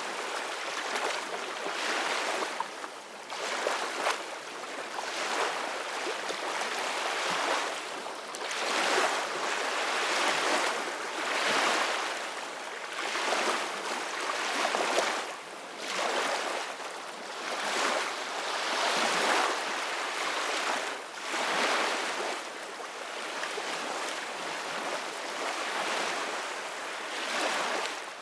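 Ocean waves breaking and washing in, a steady hiss that swells and eases every couple of seconds, with little deep rumble.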